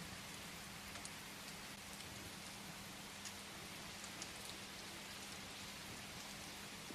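Steady rain pattering, with a few faint scattered crackles of a wood fire and a low steady hum underneath.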